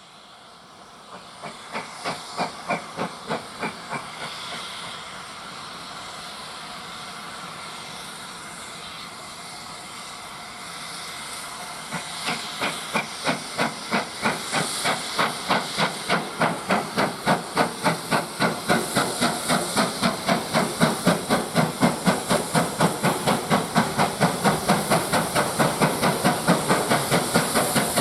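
Steam locomotive getting under way with a steady hiss of steam. A short run of exhaust beats comes about two seconds in. From about twelve seconds in, the beats return, quicken to about three a second and grow louder.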